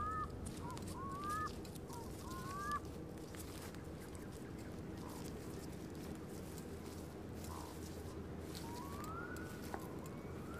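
Bird calls: a few short rising calls in the first second and a half and one longer rising call near the end, over a steady low rumble.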